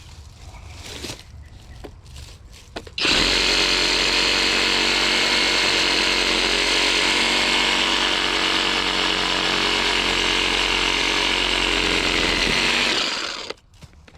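Skil cordless brushless reciprocating saw cutting through a tree branch. It starts suddenly about three seconds in, runs at a steady speed for about ten seconds, then winds down and stops near the end.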